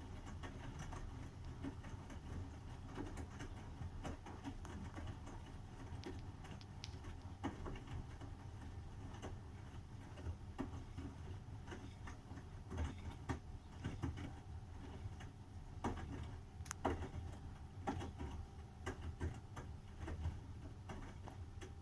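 Bosch washing machine running a wash cycle on its easy-care 40 °C programme: a steady low hum with scattered clicks and knocks throughout.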